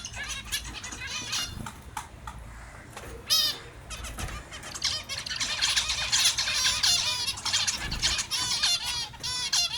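A group of small finches calling: many short, repeated chirping calls, sparse at first, then a dense overlapping chorus from about halfway in.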